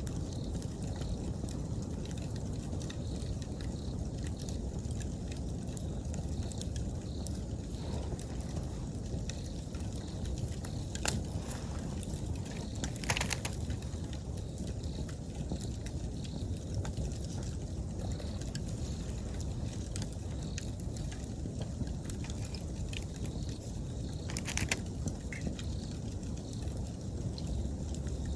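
Wood campfire burning with a steady low rumble and scattered crackles, with a few sharp pops, the loudest about halfway through and near the end. Faint autumn insects chirping steadily behind it.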